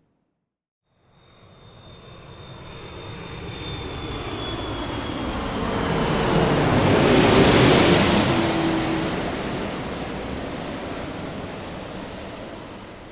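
An airplane passing by. After a second of silence its noise swells to a peak about seven and a half seconds in, then fades, with a high whine and a lower hum both dropping in pitch as it goes past.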